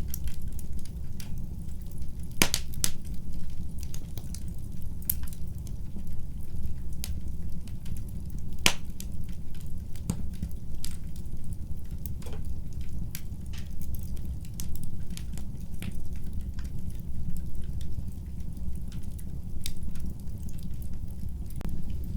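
Wood fire burning in a fireplace: a steady low rumble of flame with irregular sharp crackles and pops throughout, a few louder pops among them.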